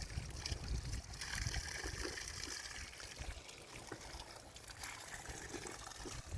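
Spring water trickling and running steadily.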